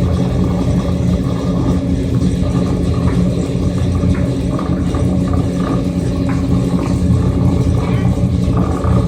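Crab boat's diesel engine and deck machinery running with a steady low hum and rumble.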